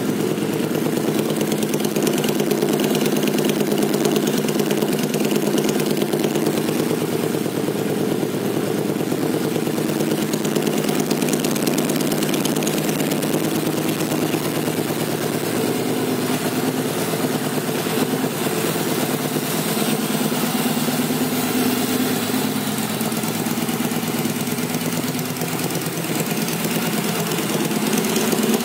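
2012 Victory Highball's 106 cubic-inch Freedom V-twin, fitted with an aftermarket Arlen Ness exhaust, idling steadily.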